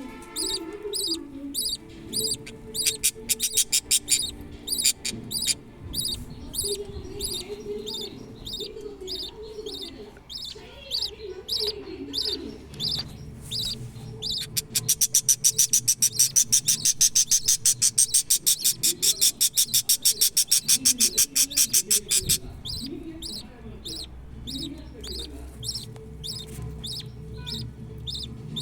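Budgerigars chirping: short high cheeps repeated in quick series, with a louder, faster run of about six cheeps a second for some seven seconds in the middle.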